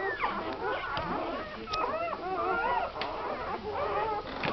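A litter of newborn American Staffordshire Terrier puppies squeaking and whimpering, several high little cries overlapping at once.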